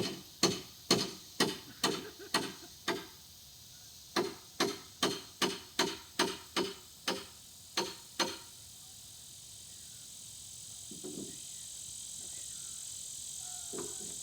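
Hammer blows, about two a second, in two runs with a short pause between them, stopping about eight seconds in. After that, a steady high chirring of insects that grows slowly louder.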